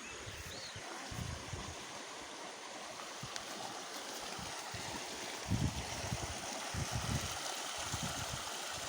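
Waterfall's rushing water, a steady even wash, with a few low thuds in the second half.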